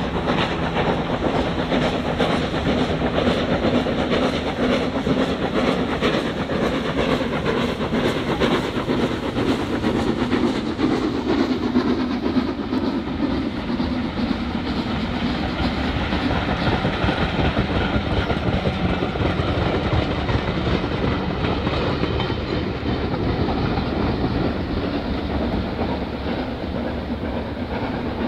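A train running along the line with a steady rumble and a clickety-clack of wheels over the rail joints; the sound grows gradually duller towards the end.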